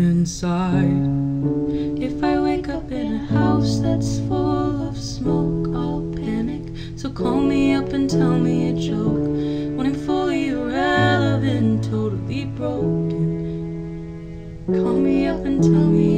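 A female voice singing a slow song over acoustic guitar chords, with long held notes that waver in pitch.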